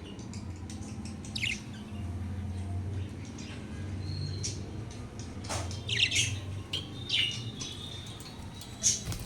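Budgerigars chirping and squawking in short, scattered calls, the loudest about six seconds in and again just before the end, over a steady low hum.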